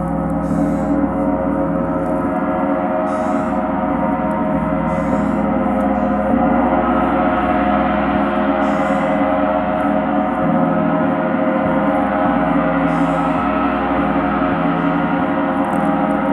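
A large gong played continuously in a gong bath, its dense cluster of overtones ringing together in an unbroken, steady wash that swells slightly.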